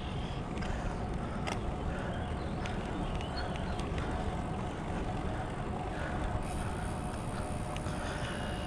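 Steady wind noise rushing over the microphone of a moving bicycle, strong in the low end, with a faint steady hum and a few light clicks.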